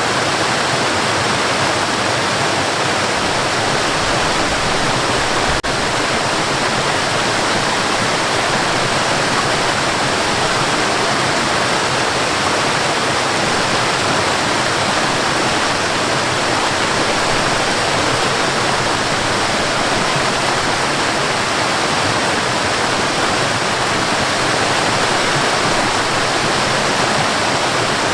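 Waterfall: a steady, even rush of falling water, with a faint click about five and a half seconds in.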